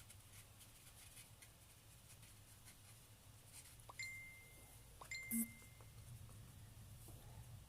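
Near silence with a faint steady room hum. About four seconds in there are two short, high, steady tones, each starting with a click, about a second apart, followed by a brief rustle.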